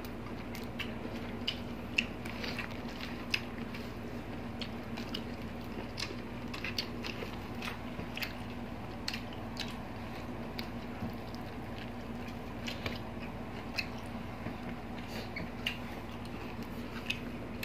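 Close-up eating sounds: people chewing with their mouths, making many short, irregular wet clicks and smacks.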